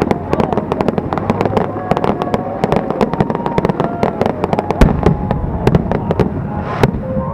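Aerial fireworks going off: a dense, rapid crackle of sharp pops and bangs, with a heavier bang about five seconds in.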